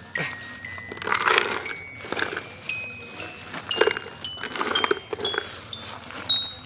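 Small gravel pebbles clattering and clinking as they are loaded into a miniature wooden toy truck. Each drop comes with a short ringing tone, and the tone climbs step by step in pitch as the loading goes on.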